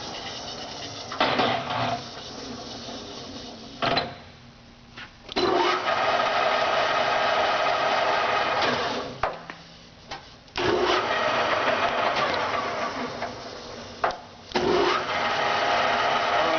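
JET 24" x 120" geared-head engine lathe running with a steady gear whine. It stops three times and starts again each time with a clunk, as the spindle is stopped and restarted.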